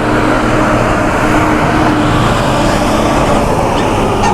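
Steady motor vehicle noise: an engine running close by, with road traffic noise around it.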